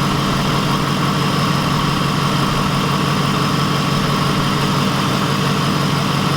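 Ford Mustang 4.6-litre V8 idling steadily while its cooling system is burped of trapped air after the engine has been overheating.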